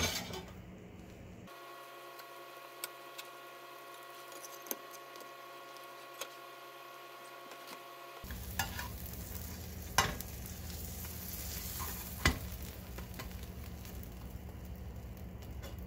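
Grilled-cheese sandwich sizzling as it fries in a nonstick pan, with a few sharp clicks of a metal spatula against the pan, the loudest about ten and twelve seconds in.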